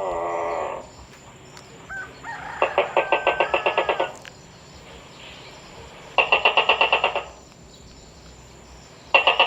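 Tokay gecko calling in rapid pulsed bursts of about a dozen notes a second, each burst lasting about a second, three times a few seconds apart; a call with wavering pitch fades out just at the start.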